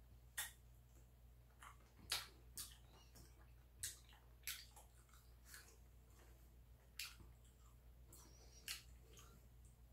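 A person eating: faint chewing with scattered sharp, wet mouth clicks at irregular intervals, over a low steady hum.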